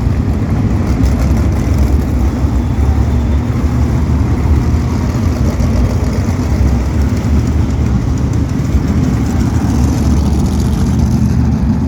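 A full field of asphalt sprint cars running together on the track at pace-lap speed, making a loud, steady, dense engine sound with no single car standing out.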